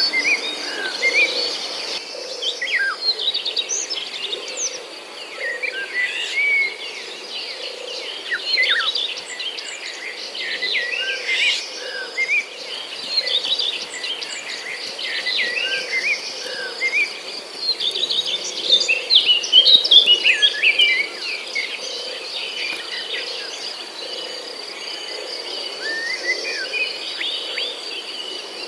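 Many birds chirping and singing in quick, overlapping calls, over a steady high insect drone and a lower pulsing insect chorus.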